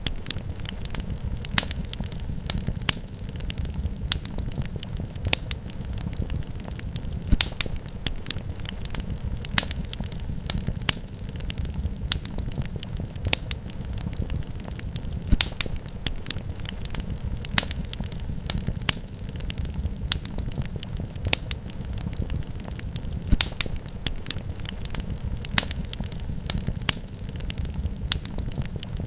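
Wood fire crackling in a fireplace: a steady low rumble of burning with irregular sharp pops and snaps, a few of them louder.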